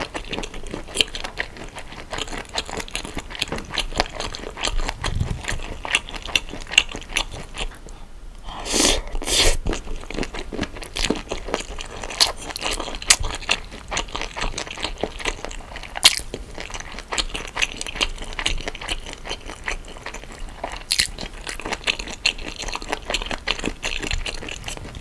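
Close-miked chewing of raw soy-marinated shrimp with rice: a steady, irregular run of wet crunching and squishing mouth sounds as the plump shrimp chews firm and springy. Two louder noises come close together about nine seconds in.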